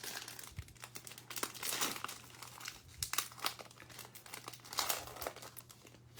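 A foil trading-card pack being torn open and crinkled by hand, in irregular rustling strokes.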